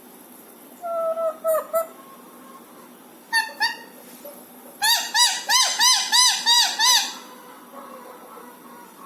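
Pet parrot calling: a short call about a second in, two brief notes a little after three seconds, then a quick run of about nine rising-and-falling calls lasting about two seconds.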